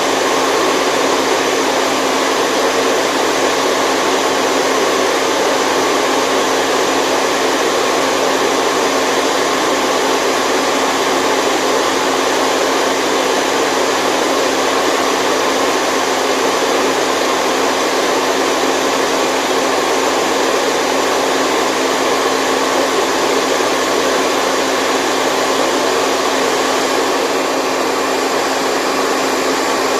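Steady white noise for sleep, a continuous even whoosh with a faint steady hum running through it, unchanging throughout.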